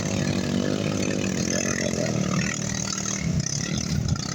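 Enduro motorcycle engine running, steady at first and then revving unevenly in the second half.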